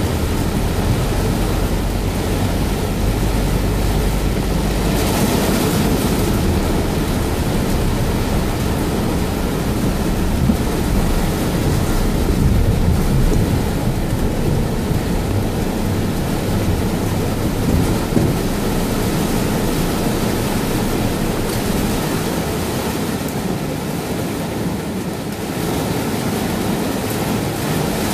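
Heavy downpour on a car's windshield and roof, heard from inside as a steady rushing noise, with a deep rumble during the first five seconds.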